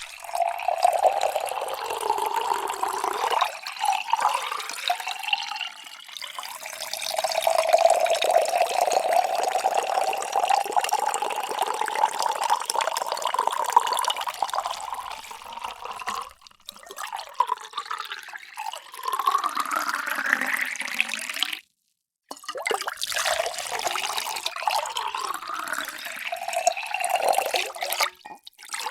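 Water pouring into a series of containers, several separate pours broken by short gaps. In one pour the ringing tone rises steadily in pitch as the vessel fills, then cuts off abruptly.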